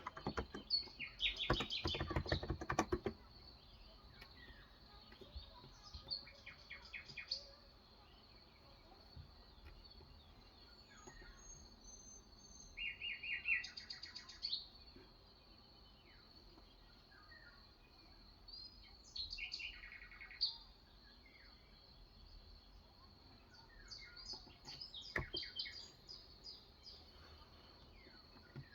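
Birds chirping in short bursts of rapid trilling notes every few seconds, over a faint steady high whine. Near the start, a brief run of typing on an electrostatic-capacitive keyboard.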